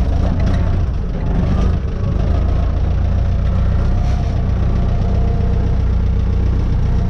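Renault 651 tractor's diesel engine running steadily at low revs while the tractor is manoeuvred.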